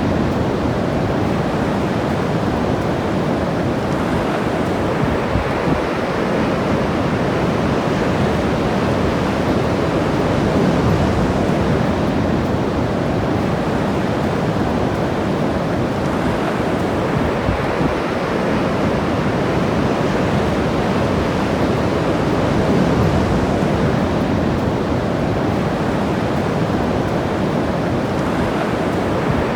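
Ocean surf breaking and washing on the shore: a steady rush of water that swells and eases slowly.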